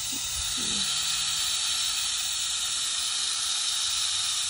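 Garden hose spray nozzle running steadily, a continuous hiss of water spraying onto flower beds.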